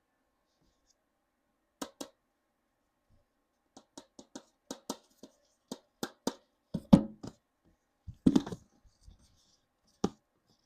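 Hands handling plastic Mini Brands toy packaging: a series of sharp clicks and taps, with two louder, longer rustling sounds about seven and eight seconds in.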